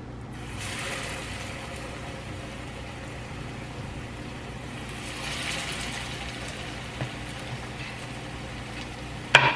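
Salmon croquette patties frying in hot grease, a steady sizzle that picks up about half a second in and swells again around five seconds in as patties go into the pan. A sharp click comes near the end.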